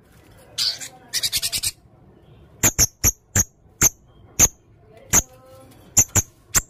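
Serindit (hanging parrot) calling: a quick rattling trill about a second in, then a run of about ten sharp, shrill, high chirps at uneven spacing.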